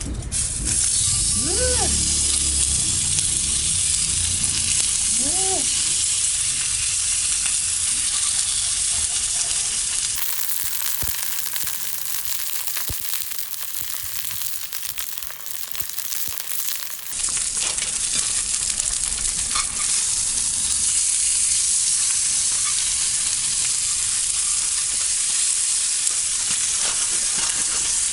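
Food frying in a skillet with a steady sizzle, quieter for a few seconds in the middle.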